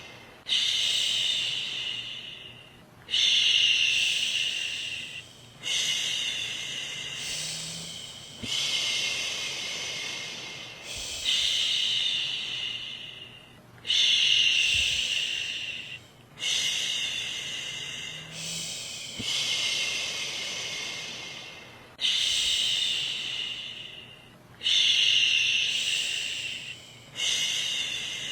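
A woman's voice shushing a baby to sleep: a run of long breathy 'shhh' sounds, each starting sharply and fading away, one every two to three seconds.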